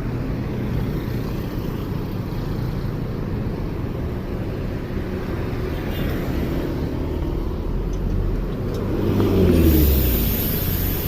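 Motor vehicle engines running with a steady low rumble. About nine seconds in, one vehicle gets louder and its pitch falls as it passes close.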